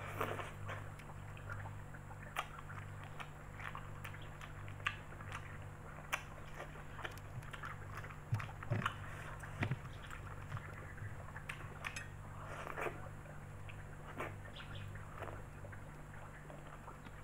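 Close-up eating sounds of spaghetti eaten by hand: wet chewing and lip smacks as scattered short clicks, over a steady low hum.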